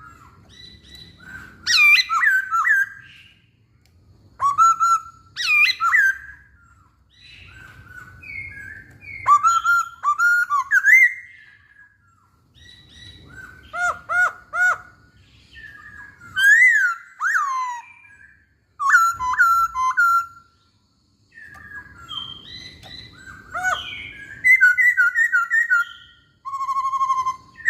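Black-throated laughingthrush (poksay Hongkong) singing: loud whistled phrases of gliding, rising and falling notes and quick repeated notes, in bursts of a second or two with short pauses between them.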